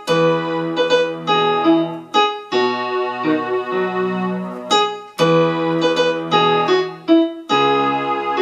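Digital keyboard on a piano-pad setting playing a hymn melody with left-hand bass notes in the key of E, at a slow pace, with sustained chords and notes changing every second or so.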